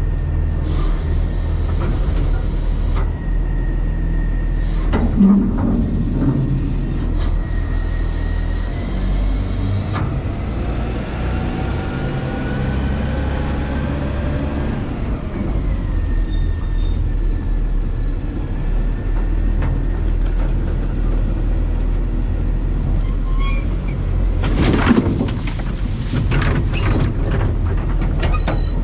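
New Way Sidewinder side-loading garbage truck running, heard from inside its hopper: a steady low engine drone, with faint sliding whines in the middle and clusters of clanks and knocks about five seconds in and again near the end.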